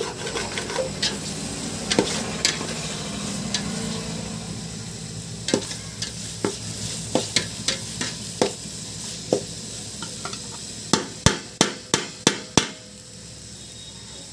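Chicken curry masala with tomato frying and sizzling in a pan while a spoon stirs and scrapes it, with scattered clicks. Near the end comes a quick run of about six sharp knocks, after which the sizzle drops lower.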